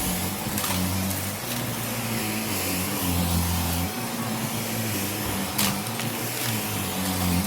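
Vacuum cleaner running: a steady rushing hiss of air over a low motor hum that shifts in pitch from moment to moment.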